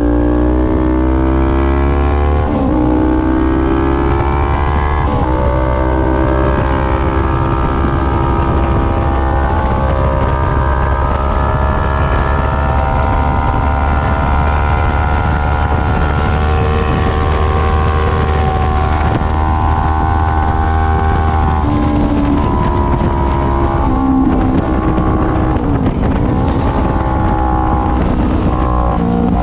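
Kawasaki Ninja 400's parallel-twin engine running hard at high revs, its pitch stepping down twice through upshifts in the first five seconds, holding steady for a long stretch, then dropping and rising again in the last third as the bike slows and accelerates. Wind rushes over the microphone throughout.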